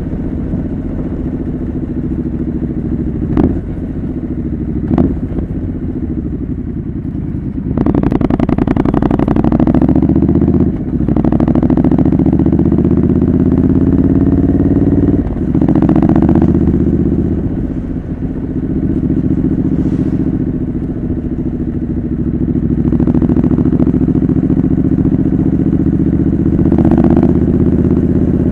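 Triumph Scrambler 900's parallel-twin engine through a homemade custom exhaust, ridden on the road. About eight seconds in it opens up and accelerates, the pitch rising and then briefly dropping at each gear change, several times. Wind is on the microphone.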